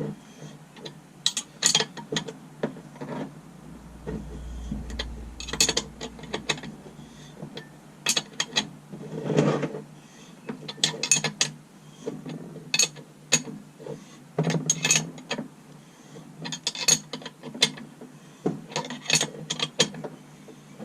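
Ratchet wrench clicking in short, repeated bursts as it turns the screw of a bearing press, drawing a bearing into a two-stroke engine crankcase.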